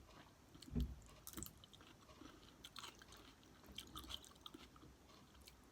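Faint close-up chewing and mouth sounds of someone eating sushi, with scattered soft clicks and a low bump about a second in.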